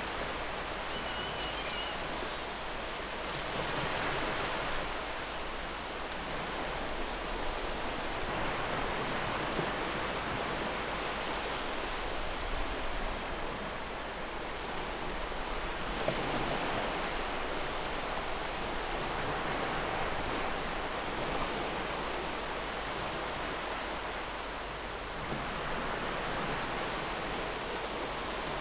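Ocean surf washing steadily, swelling and easing in slow waves every few seconds.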